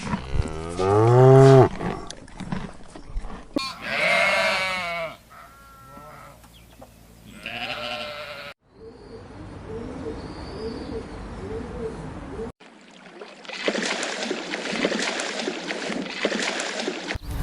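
Farm animal calls across several short clips: a low, drawn-out call at the start, then wavering bleating calls, followed by quieter stretches of background noise.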